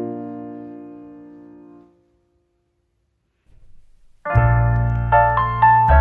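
Background piano music: the notes of a chord die away, then about two seconds of silence. A little over four seconds in, the piano starts again with a new phrase of struck notes.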